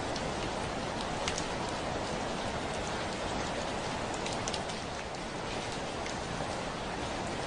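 Heavy rain falling on a window: a steady hiss of rainfall with occasional sharper drop taps on the glass.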